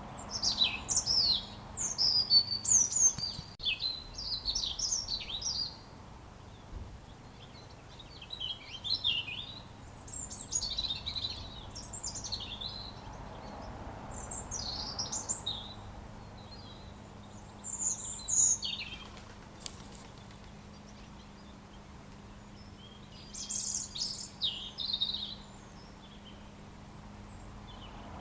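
A robin singing: rapid, high, warbling song phrases of a few seconds each, broken by short pauses of silence between them.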